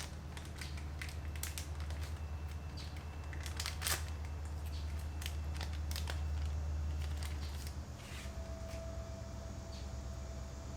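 Crinkling and clicking as a headlight oxidation-remover wipe packet is handled and opened, over a steady low hum that eases about eight seconds in, when a faint steady tone starts.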